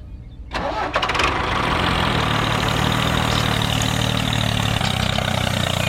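Small engine running steadily at idle, cutting in about half a second in after a brief quiet moment.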